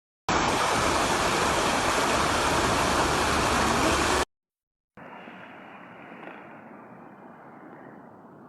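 Loud, steady rush of water for about four seconds, cutting off abruptly. After a short gap, a much quieter, muffled steady rushing follows.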